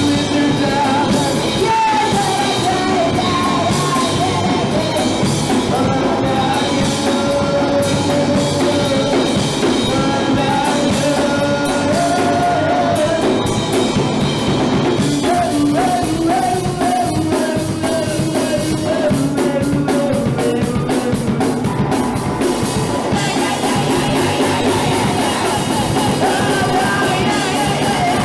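Live punk rock band playing loud, with drums, guitars and a shouted, sung vocal.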